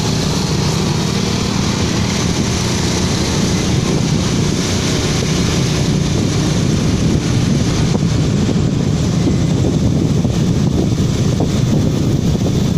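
A road vehicle driving along, a steady engine hum under loud wind noise on the microphone.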